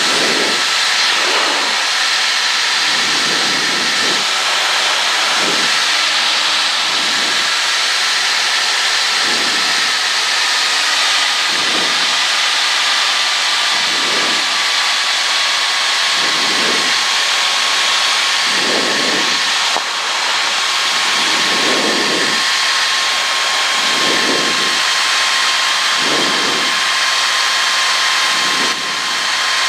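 Cessna 152 cabin noise in flight: the Lycoming O-235 engine and propeller running steadily under a loud, even rush of airflow hiss. A faint steady tone in the noise slides slightly lower in pitch around the middle, and soft low pulses come every second or two.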